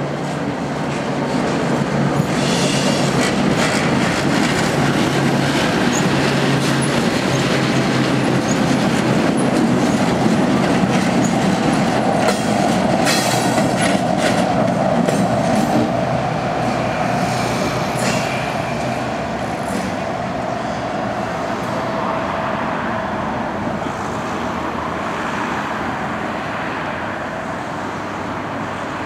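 Freight train led by SNCF electric locomotives BB 7415 and BB 7413 with a BB 75000 diesel passing: a steady rumble of wheels on rail with clicks over rail joints. A drawn-out wheel squeal starts about twelve seconds in, and the sound eases off as the train goes by.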